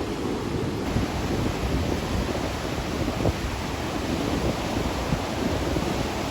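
Heavy sea surf breaking and washing on the beach, with strong wind buffeting the microphone.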